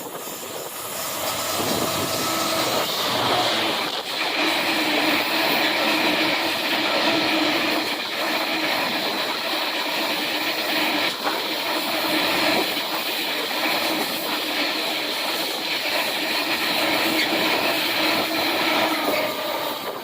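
Freight train passing through at speed: a steady rumble of the wagons with wheel-on-rail noise, building over the first couple of seconds and then holding.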